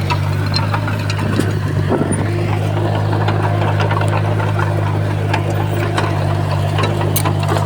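Komatsu bulldozer's diesel engine running steadily under load, with short sharp clicks and clanks scattered through it.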